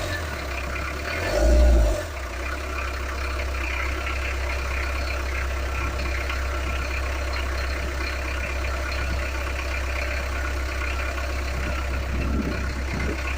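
Talbot Express motorhome's diesel engine idling steadily, its newly fitted auxiliary belts turning, with a brief louder low surge about one and a half seconds in.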